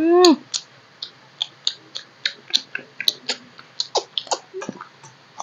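Close-miked chewing of soft, wet rice, with short sharp mouth smacks and clicks at an irregular pace of about four a second. It opens with a brief hummed "mm" that rises and falls.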